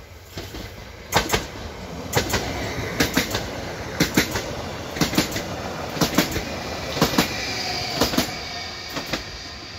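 Leo Express Stadler FLIRT electric multiple unit passing at speed. Its wheels click over the rail joints in pairs about once a second as each bogie goes by, over a steady rumble. A faint high whine comes in near the end.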